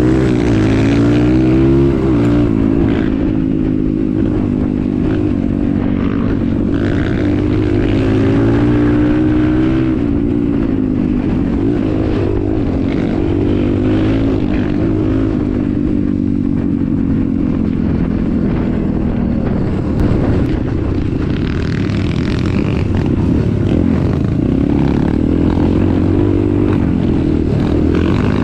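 Vehicle engine running under way, its pitch rising and falling with the throttle.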